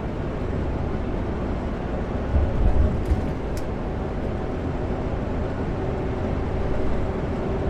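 Kenworth W900L semi truck heard from inside the cab while cruising on the highway: a steady engine drone and road noise, with a faint steady hum over it. A couple of low thumps come about two and a half seconds in.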